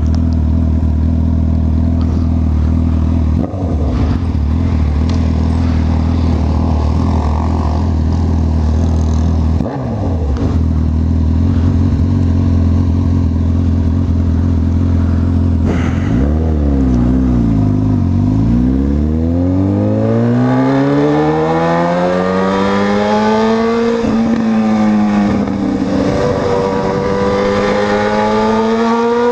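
Honda CB1000R's inline-four engine running at steady revs for about the first half, then revving up in long rising climbs as the bike accelerates, with a brief drop at a gear change about three quarters of the way through before climbing again.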